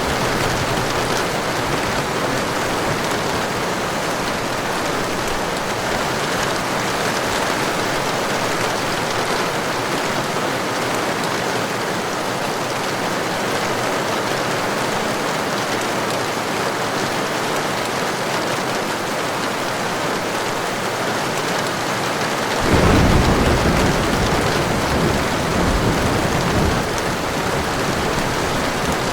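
Heavy, steady rain, with a loud roll of thunder that breaks in suddenly about three-quarters of the way through and rumbles for several seconds.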